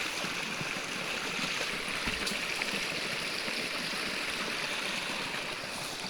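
Creek water rushing steadily, running fast, with a faint knock about two seconds in.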